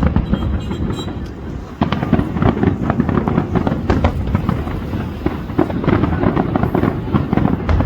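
New Year fireworks display: many bangs and crackles in quick succession, getting louder about two seconds in.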